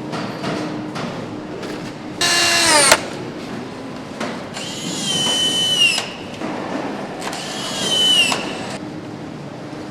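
Handheld power tool on an assembly line, driven in three short bursts. The first is the shortest and loudest and winds down in pitch as it stops. The other two whir up and back down.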